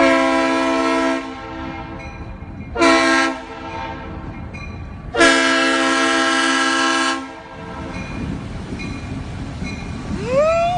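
Loud multi-chime air horn sounding three times: a blast of about a second, a short one, then one of about two seconds, over a low rumble. Near the end a single higher tone slides up and holds.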